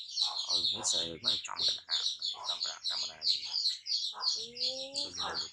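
A bird chirping in a rapid, steady run of short high chirps, about four or five a second, with a person's voice talking underneath.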